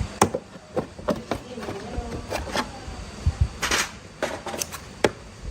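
Workshop handling sounds: a few irregular sharp clicks and knocks of tools and metal parts, with a brief hiss a little past halfway.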